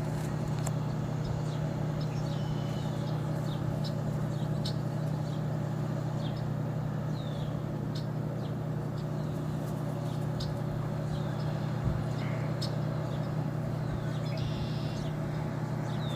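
Steady low hum of urban background traffic. Over it, short high bird chirps, many sliding down in pitch, repeat irregularly about once a second.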